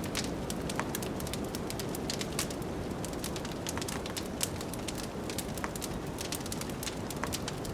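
Wood fire crackling in a fireplace, with many small sharp pops and snaps, over a steady low rush of blizzard wind.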